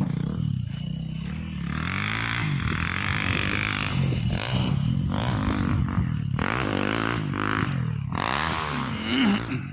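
Off-road motorcycle engines revving up and down, more than one heard at once, with the pitch rising and falling repeatedly.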